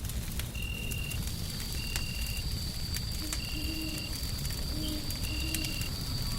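Fireplace fire crackling with sharp scattered pops over a steady low rumble of white noise. A short high chirp repeats about every second and a half, and a faint thin high tone comes in about a second in.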